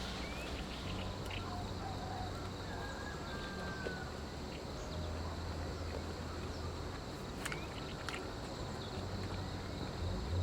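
Outdoor nature ambience: steady insect chirring with a few short bird chirps and scattered small clicks.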